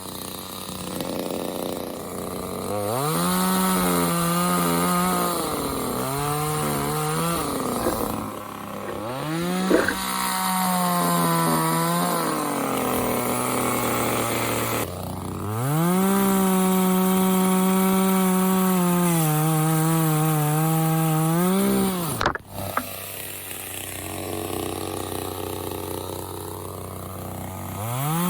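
Parkside PBBPS 700 top-handle two-stroke petrol pruning chainsaw, revved repeatedly between idle and high throttle, its pitch sagging at times as if under load from cutting wood. It holds the longest high run in the second half, then drops back to idle before revving up again near the end.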